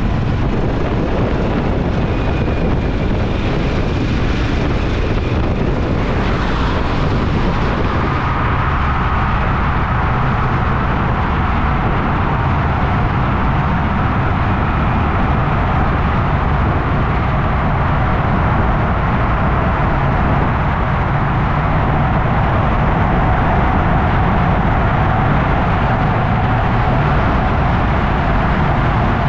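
Motorcycle engine running steadily at cruise with wind and road noise, heard from on the bike. The sound changes slightly around six to eight seconds in, when the hiss thins and a steady mid-pitched hum comes up.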